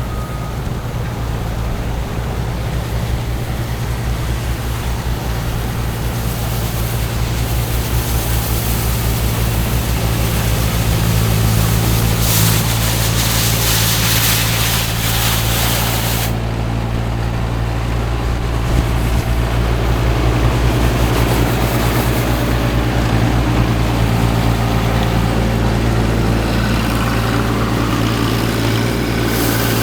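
A heavy engine runs steadily close by, with a low hum. A loud hiss lasts about four seconds around the middle.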